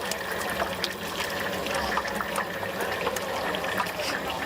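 Stinky tofu deep-frying in hot oil: a steady sizzle with many small scattered crackles and pops.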